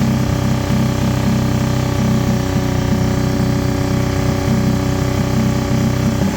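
An engine or motor running steadily at a constant speed, with a brief break in the sound near the end.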